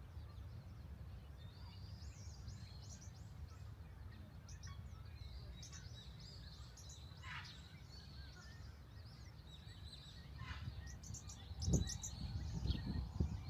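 Birds calling: quick runs of short, high, falling chirps, with a couple of longer calls that slide downward, over a steady low rumble. A few louder low thumps come near the end.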